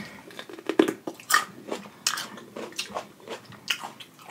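A person biting into and chewing a raw mini sweet pepper dipped in sauce, with crisp crunches coming irregularly, about one or two a second.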